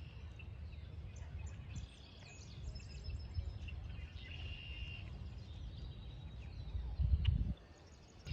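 Small birds chirping intermittently with short high calls and a brief whistled note, over a low rumble of wind on the microphone that swells about seven seconds in and then drops away.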